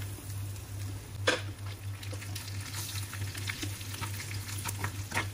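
Tadka frying in a non-stick pan: chopped onion and ginger sizzle and crackle in hot oil with whole spices, dried red chillies and curry leaves. A spatula stirs them and knocks against the pan about a second in and again near the end, over a steady low hum.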